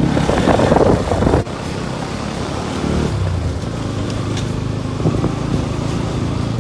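A road vehicle driving along: steady engine and road noise with a low hum. A louder rushing burst in the first second and a half cuts off abruptly.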